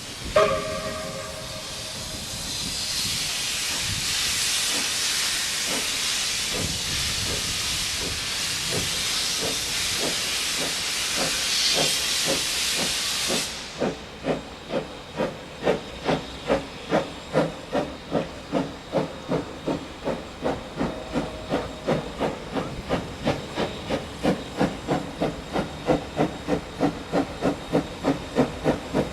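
Steam locomotive BB18¼ 1079 giving a short whistle blast, then a loud hiss of steam that cuts off suddenly after about thirteen seconds. Its exhaust then chuffs in even beats that gradually quicken as it gets under way.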